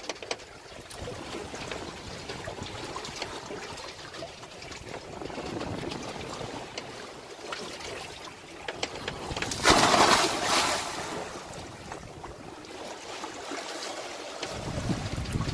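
Seawater trickling and gurgling along a sailboat's hull, with a louder rush of water for about a second roughly ten seconds in and a low rumble near the end.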